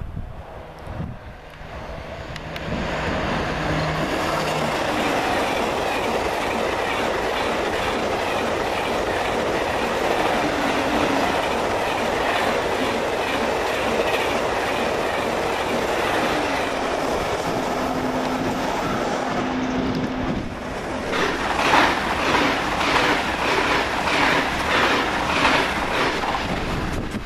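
TGV high-speed train passing through the station at speed, a steady loud rush of wheels and air. About 21 seconds in, a double-deck TER electric multiple unit passes close by, its wheels clacking over the rail joints about twice a second.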